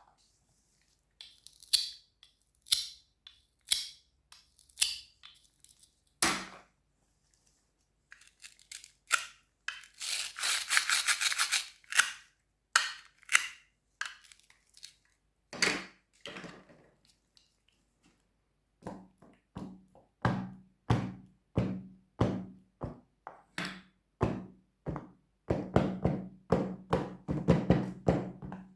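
Crisp fruits and vegetables crunching as they are cut, a series of separate sharp crunches about a second apart. About ten seconds in comes a dense two-second run of rapid crackling, and later the crunches come faster and more regularly.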